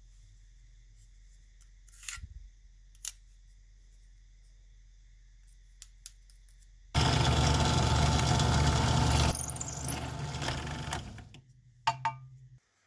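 Faint workshop hum with a few light clicks, then an electric shop machine starts abruptly and runs loudly for about three seconds before winding down over a second or so. It is working the elk antler being shaped for handle scales.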